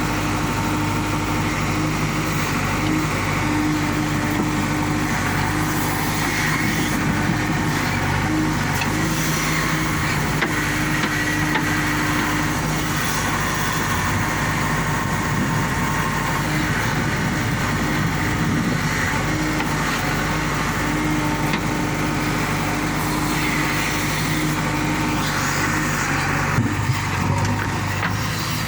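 Diesel engine of heavy earthmoving machinery running steadily, with a few short knocks near the end.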